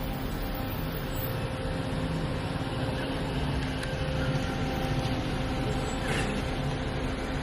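Steady low background rumble of noise with a faint steady hum, no distinct events.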